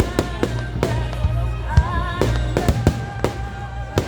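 Fireworks going off, about ten sharp bangs at irregular intervals, over music with held, gliding melodic tones.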